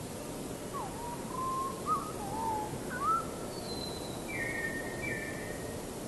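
A bird whistling a phrase of short sliding notes, followed by a few higher, held whistles, over a steady background hiss.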